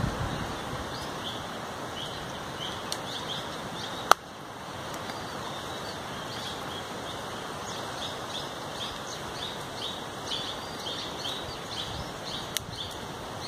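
Small birds chirping in quick, repeated short high calls, growing busier in the second half. A single sharp click about four seconds in is the loudest sound, with a fainter click near the end.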